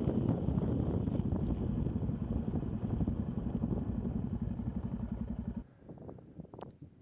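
Single-cylinder motorcycle engine of a Yamaha XT660Z Ténéré running with a steady, even beat, cutting off abruptly about five and a half seconds in.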